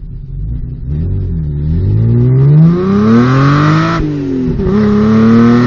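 Car engine revving, then accelerating hard with its pitch climbing steadily. About four seconds in the pitch drops sharply at a gear change, then climbs again as it pulls through the next gear.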